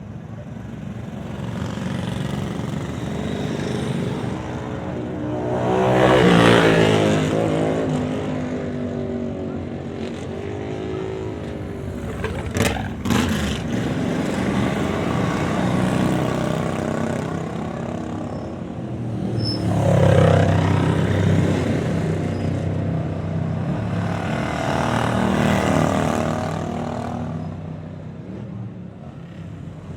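Vintage motorcycles riding past one after another, their engines swelling and fading as each passes, the loudest passes about six and twenty seconds in. About halfway through there is a brief sharp crack or two.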